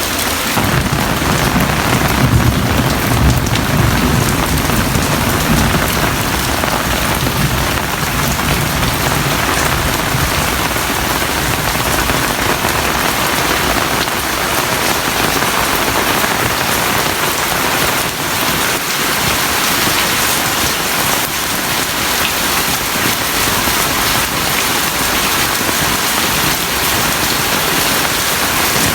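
Heavy rain falling steadily, a dense even hiss, with a low rumble underneath during the first several seconds.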